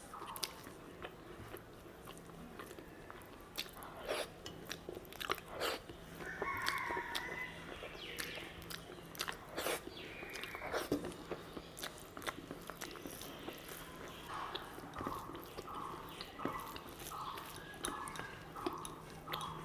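Close-miked eating sounds of a person chewing rice and curry: wet chewing, lip smacks and sharp mouth clicks, with a run of steady chewing, about two chews a second, near the end. A faint steady hum runs underneath.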